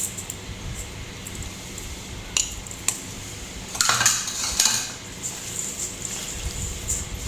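Kitchen utensils clinking against dishes or cookware: a few separate clinks, then a busier clatter about four seconds in.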